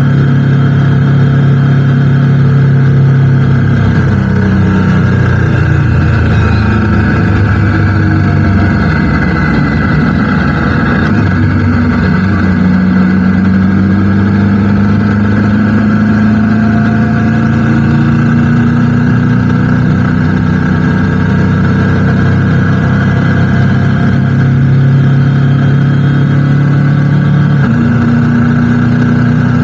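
Motorcycle engine running while riding. Its pitch changes about four seconds in, then climbs slowly through the middle as the bike gathers speed, and changes again near the end.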